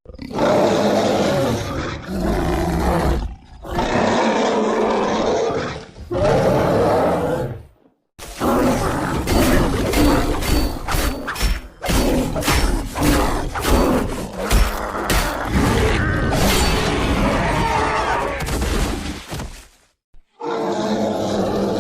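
Bear roars and growls assembled as a monster-bear sound effect from grizzly and black bear recordings: several separate roars of one to two seconds each, then a long rough stretch of snarling broken by sharp clicks, then another roar near the end.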